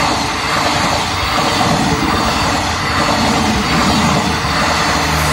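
Passenger train coaches rolling past close by at speed: a steady, loud rush and rumble of steel wheels on the rails.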